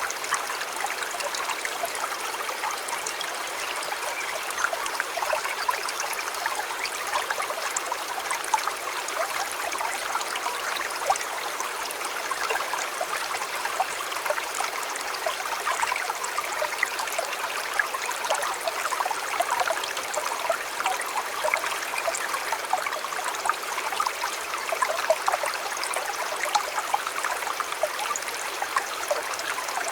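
Shallow river flowing steadily, a continuous burble of water with many small splashes and trickles.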